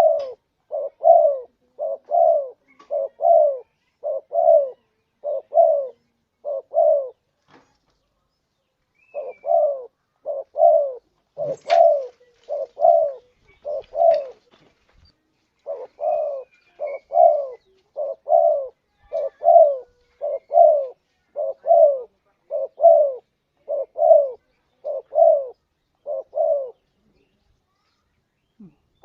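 Spotted dove (tekukur) cooing: a long run of short, evenly spaced coos, about one and a half a second, with two short breaks and a stop shortly before the end. It is a lure call used to draw in wild tekukur.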